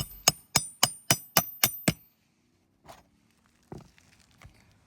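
Hammer driving a roofing nail through an asphalt shingle: about eight quick strikes, nearly four a second, each with a bright metallic ring, stopping about two seconds in. A couple of soft knocks follow.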